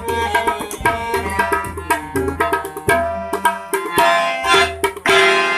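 Music driven by quick tabla strokes, with low, booming bass-drum notes and a pitched melody line above. A louder sustained note comes in about five seconds in.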